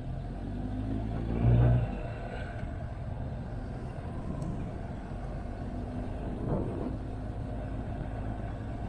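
Motorcycle engine running at road speed, with wind and road rumble, briefly louder about a second and a half in.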